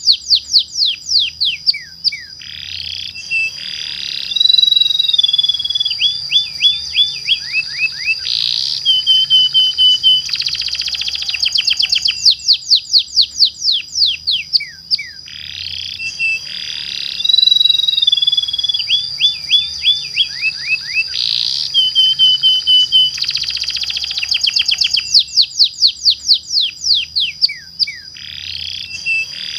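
Domestic canary singing a long rolling song of rapid trills and sweeping whistles, the same phrase coming round again about every twelve seconds as a looped lure recording, over a steady high tone.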